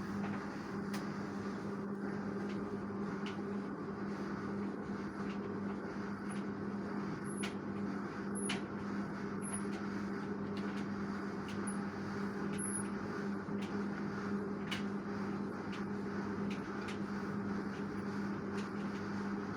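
LG direct-drive washing machine running, a steady hum over a rushing noise with scattered light clicks and ticks.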